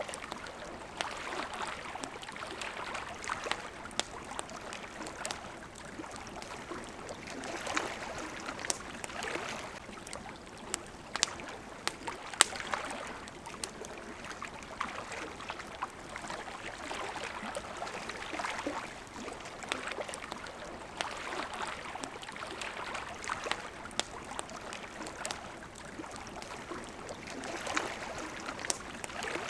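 Small waves lapping at the shore, rising and falling in swells every few seconds, with the scattered sharp pops and crackles of a wood campfire; one pop, about twelve seconds in, stands out as the loudest.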